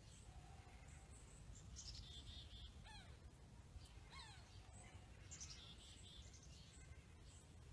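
Faint birdsong: bursts of high twittering chirps and two short descending calls about three and four seconds in, over a steady low background rumble.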